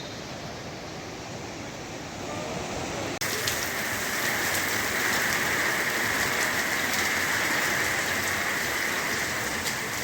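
Rain falling steadily, an even hiss; about three seconds in it cuts abruptly to a louder, hissier downpour with scattered drop ticks.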